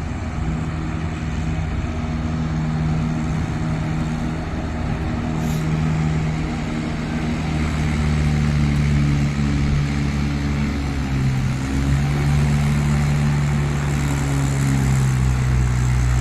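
Mahindra 575 tractor's diesel engine running steadily under load, hauling a trolley loaded with soil, its pitch drifting slightly.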